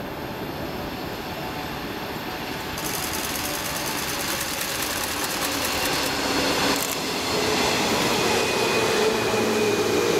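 JR West 201 series electric train approaching and running past, its wheel and rail noise growing steadily louder, with a steady whine from about seven seconds in.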